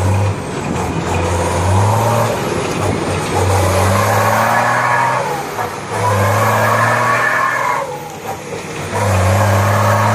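Diesel engine of a BMC Pro 625 truck revved through a modified 'wolf' exhaust, about four times. Each time the note rises and is held for one to two seconds, then drops back toward idle.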